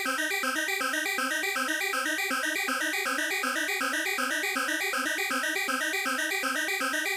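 Arturia MicroFreak synthesizer playing a fast arpeggio of short, evenly spaced notes that step up and down in pitch, using its wavetable oscillator in Unison Mode, with all oscillators stacked and detuned on each note.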